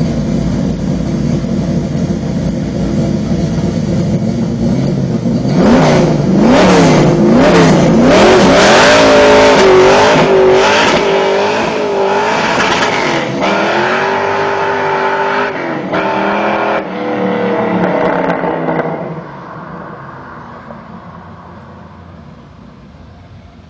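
Naturally aspirated 572 big-block V8 with dual 3-inch exhaust running steadily, then pulling hard under throttle from about five seconds in, its pitch rising and falling. Near the end it drops off throttle and the sound fades away.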